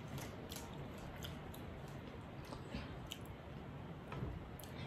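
Quiet chewing and wet mouth clicks of people eating, with scattered faint clicks through it.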